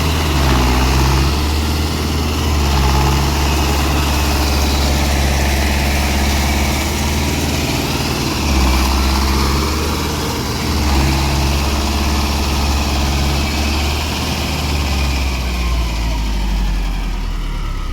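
Mahindra tractor's diesel engine running under load in soft ground, its engine speed rising and falling with small surges of throttle.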